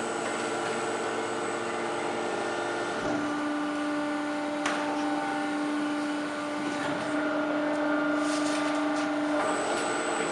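Factory production-line machinery running with a steady hum of several tones that step to a new pitch about 3 seconds in and again near the end, with a single sharp click about halfway.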